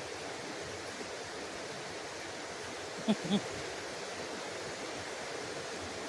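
Small forest stream flowing, a steady rushing of water. About three seconds in, two short, louder pitched sounds come a quarter second apart.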